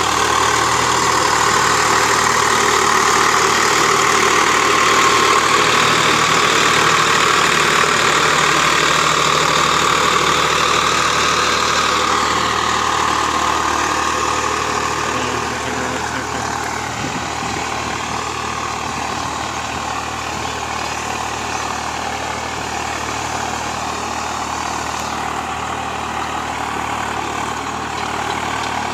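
Tractor's diesel engine running steadily, a little quieter from about halfway through.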